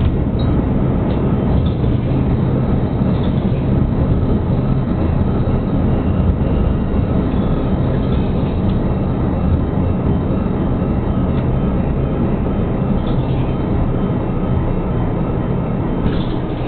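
Steady running noise of a diesel railcar heard from inside the cabin: low engine rumble and wheel noise on the track, as the train draws into a station platform near the end.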